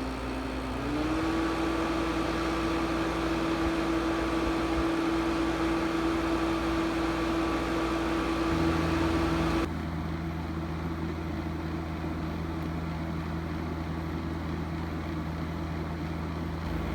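1968 GE Fashionette 6000 window air conditioner running on high cool: a steady fan and compressor hum with a tone that rises a little about a second in. The sound changes abruptly about halfway through and stays steady after that.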